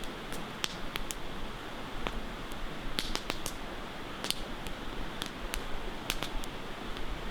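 Wood campfire crackling, with irregular sharp pops a few times a second, over a steady hiss of running river water.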